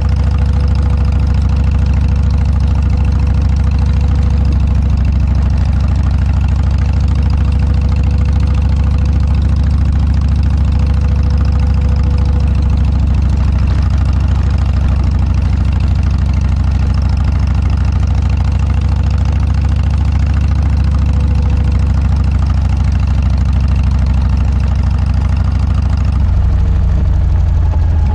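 Harley-Davidson Dyna's V-twin engine running steadily through a Motorstage aftermarket muffler, a deep, even exhaust note; the engine note shifts near the end.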